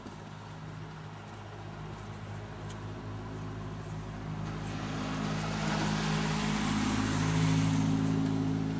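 A motor vehicle engine running with a steady low hum, growing louder to a peak near the end and then easing slightly.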